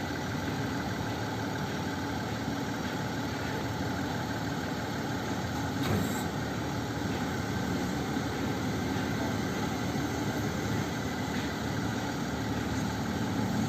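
Mitsubishi Fuso Super Great truck's diesel engine idling steadily, with a single brief knock about six seconds in.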